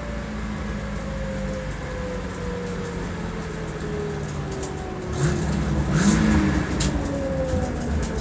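Twin-turbo Dodge Charger Hellcat drag car rolling down at low engine speed, a whine sliding slowly and steadily down in pitch as it slows. About five seconds in the engine revs briefly up and back down, followed by a few sharp clicks.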